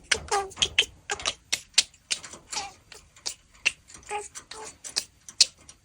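Budgerigar warbling: a fast, irregular run of clicks, ticks and short chirps.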